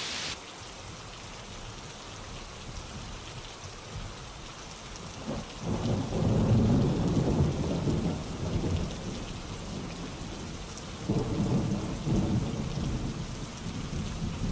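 Steady rainfall with two long, low rolls of thunder, the first starting about five seconds in and the second about eleven seconds in. A brighter hiss in the rain drops away just after the start.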